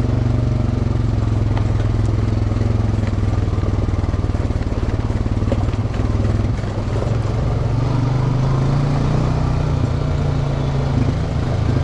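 Off-road vehicle engine running steadily under the rider on a trail, its pitch rising a little and settling again near the end.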